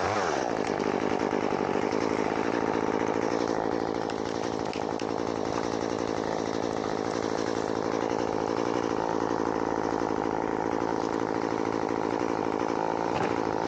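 Chainsaw running steadily at an even pitch while limbing a dead loblolly pine, after revving up just as the sound begins.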